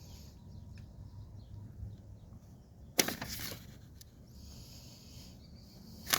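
Beehive parts being handled: faint knocks and shuffling, with one sharp knock and a brief rattle about three seconds in.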